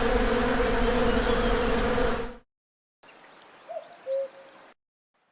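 A swarm of bees buzzing loudly with a steady hum, cutting off abruptly about two seconds in. Then, after a short silence, faint forest ambience with high bird chirps and a brief hooting call.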